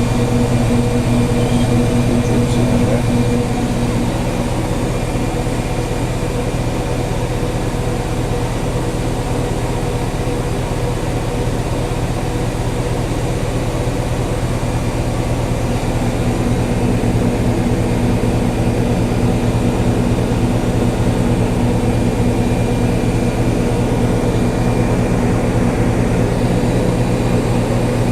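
Whirlpool Duet Sport front-load washing machine spinning its drum: a steady motor hum with a held whine, shifting slightly in tone about four seconds in and again about sixteen seconds in as the spin speed changes.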